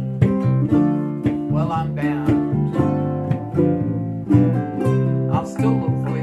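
Acoustic guitar playing chords in a bossa nova rhythm, with crisp plucked attacks recurring every half second or so over ringing sustained notes.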